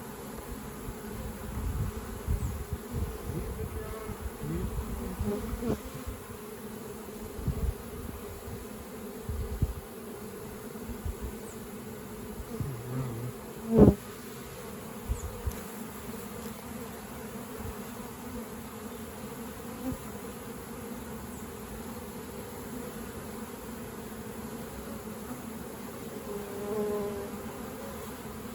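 Swarm of honeybees buzzing steadily around an opened swarm trap. Low bumps and thumps of the equipment being handled come through the first third, and one sharp knock about halfway through is the loudest sound.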